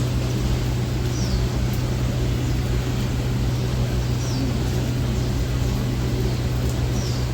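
Disneyland Railroad passenger train running steadily along the track, heard from aboard a car: an even rolling rumble with a constant low hum and a few faint short high squeaks.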